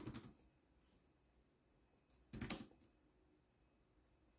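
Laptop keyboard typing: a few keystrokes at the start, then another short run of keys a little past halfway.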